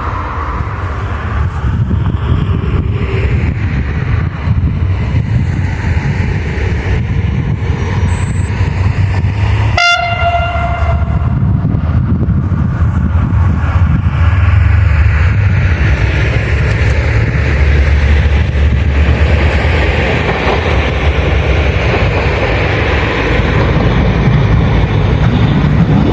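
Railway train running close by with a loud, steady low rumble, and a short horn toot about ten seconds in.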